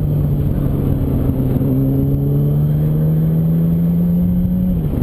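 Yamaha R1 sport bike's inline-four engine running under way at a steady speed, its pitch creeping slowly higher, then falling away just before the end.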